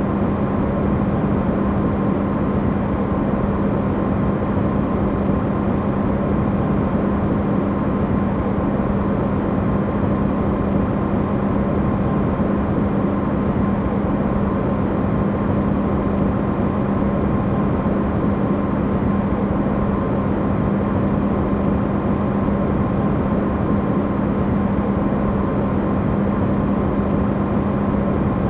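Amplified refrigerator running: a steady low hum with a constant tone and an even rushing noise over it, unchanging throughout.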